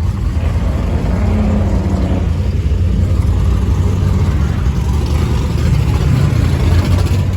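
A car engine running close by with a deep, steady rumble that swells a little in the second half.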